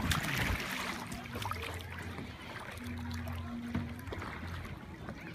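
Water splashing and trickling around a kayak as it moves, louder in the first second.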